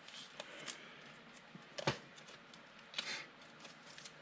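Trading cards being handled and flipped through, with faint rustles and small clicks and a sharper tap about two seconds in.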